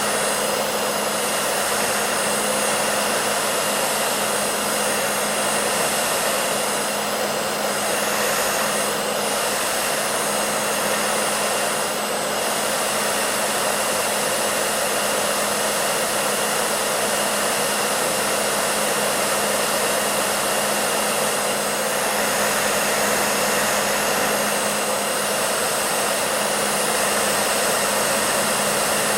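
Hair dryer running steadily: an even rushing of air with a low steady hum underneath.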